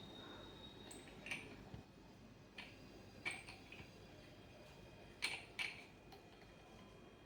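Several light, sharp clicks or taps at irregular intervals, two in quick succession near the end, over a quiet background.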